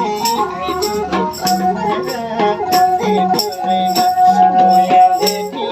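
Nepali folk music: a sarangi plays a wavering melody, holding one long note in the middle, over a steady drum beat and rattling percussion.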